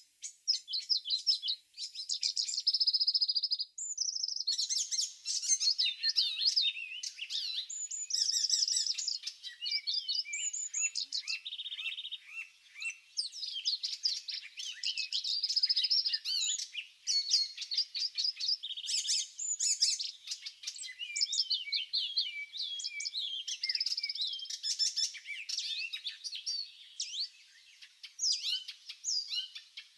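Spring songbird chorus: several birds singing at once, a dense run of quick high chirps, trills and whistled phrases with barely a pause.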